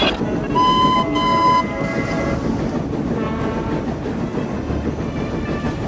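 Dubbed-on train sound effects: two short, high blasts from a train, each about half a second long and about a second in, then the steady rumble of a train running on the rails.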